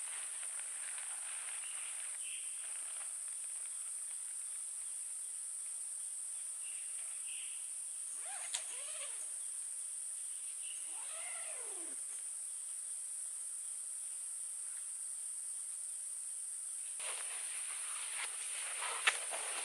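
Steady high-pitched drone of forest insects, with calls from an unidentified wild animal, each falling in pitch, about eight and eleven seconds in. A sharp click about two-thirds of the way in and another near the end.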